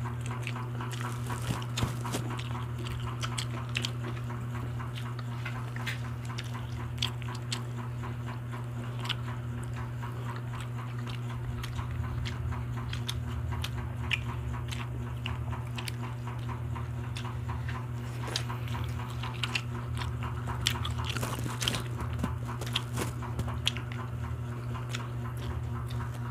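Close-miked chewing, biting and lip-smacking of people eating grilled barbecue skewers by hand: many short wet clicks and smacks over a steady low hum.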